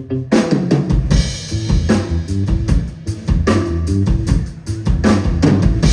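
Live band playing: a bass riff, then just after the start the drum kit comes in with kick, snare and cymbals and the full band plays on.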